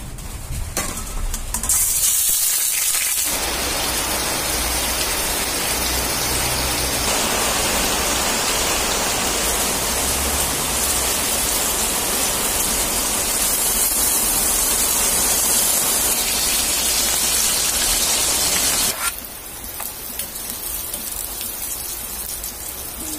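Pork pieces sizzling in hot cooking oil in a frying pan, a steady hiss that starts about two seconds in. Near the end it drops abruptly to a quieter sizzle.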